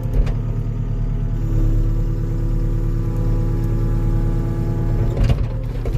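Heavy-equipment engine running under load while pulling. A steady higher tone joins about a second and a half in, and there is a short clatter of metal near the end as the unlocked attachment comes loose.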